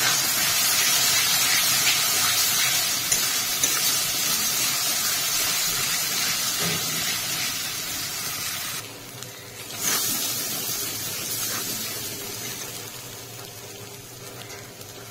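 Spice paste sizzling as it fries in oil in an aluminium kadai while being stirred with a spatula: the masala is being fried down. The sizzle dips briefly about nine seconds in and grows quieter toward the end.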